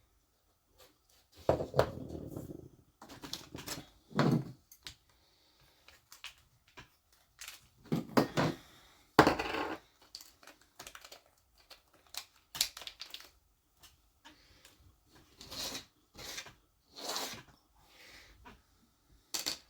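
Small metal and plastic RC car differential parts being handled on a workbench: intermittent clicks, clinks and short rattles as pieces are picked up, fitted and set down.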